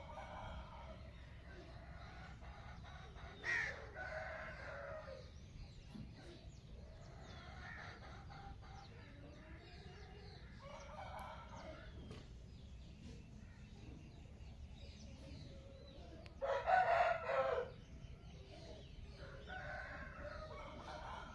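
Roosters crowing in the morning: about six separate crows, most of them faint and one clearly louder about two-thirds of the way through.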